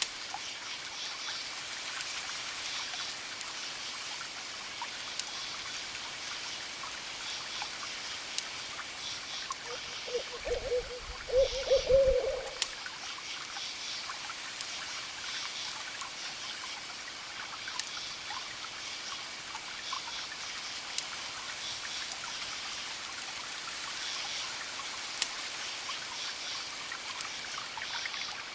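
Campfire crackling with sharp pops over a steady wash of distant ocean waves, while crickets chirp in repeated pulsed bursts. About ten seconds in, a wavering hoot from an owl rises above it for a couple of seconds.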